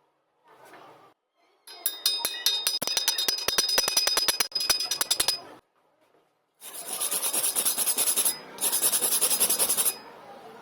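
Metal being scrubbed with a wire brush in two spells of rapid rasping strokes, typical of cleaning a weld. The first spell has sharp metallic clicks and a ringing note; the second is a higher hiss.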